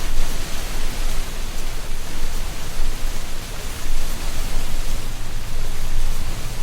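Autumn wind blowing steadily through a tree canopy, with rustling leaves as one even noise and a deep rumble underneath.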